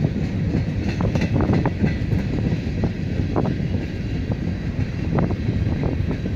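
Freight cars of a passing mixed freight train rolling by: a steady low rumble with sharp wheel clicks every second or so, and wind on the microphone.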